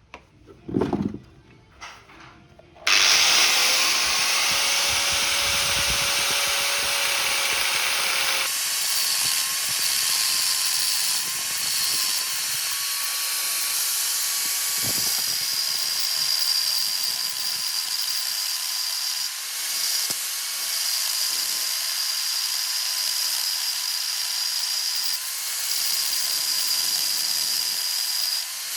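An electric power tool starts about three seconds in and runs steadily with a loud hiss and a faint whine, its sound shifting about eight seconds in; a sharp knock comes about a second in.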